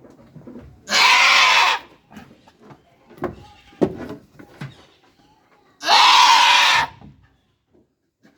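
A goat bleating twice loudly, each bleat just under a second long and about five seconds apart, with softer short sounds between them.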